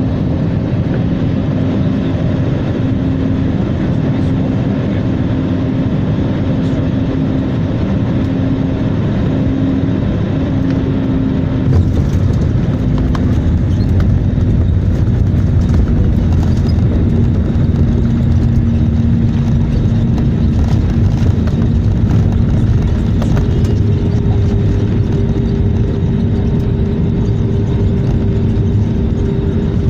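Airliner cabin noise during landing: a steady engine drone with a held hum, growing louder with a deeper rumble about twelve seconds in.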